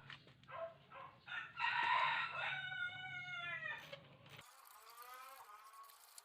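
Rooster crowing: one loud, drawn-out crow in the middle, falling in pitch at its end, then a fainter second crow.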